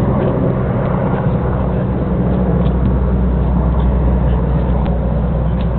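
Search and rescue helicopter running with a loud, steady low drone.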